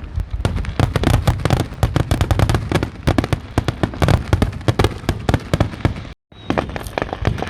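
Fireworks going off in a dense barrage: many sharp bangs and crackles a second over rumbling booms. The sound drops out completely for a moment about six seconds in, then the barrage carries on.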